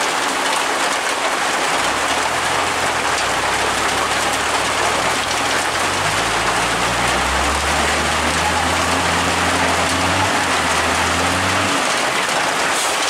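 Heavy, steady rain falling and hitting the ground. Under it, a low engine hum from a passing vehicle comes in about two seconds in and fades out near the end.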